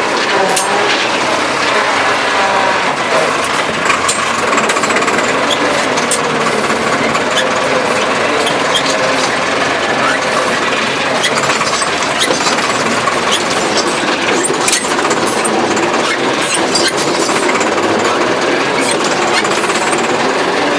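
Massey Ferguson tractor running steadily under load while working the soil, with a dense mechanical clatter and scattered sharp knocks over the engine.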